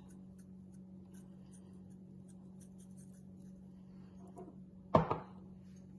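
Dried herbs being sprinkled over seasoned potatoes: faint, scattered light ticks over a steady low hum. One sharp knock about five seconds in.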